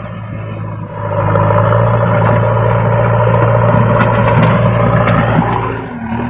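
JCB backhoe loader's diesel engine running under load, throttling up about a second in and easing off near the end, with a light rattle over it.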